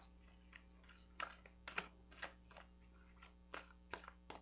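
Tarot cards being shuffled by hand: faint, irregular card clicks and flicks, about a dozen spaced a few tenths of a second apart.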